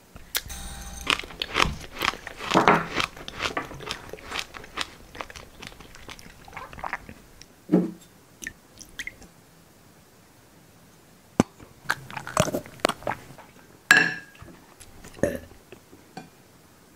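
Staged, close-miked ASMR eating sounds: loud crunching and chewing of a dry, crumbly food, dense over the first several seconds. After a lull, a handful of sharp crunches and clicks follow later on.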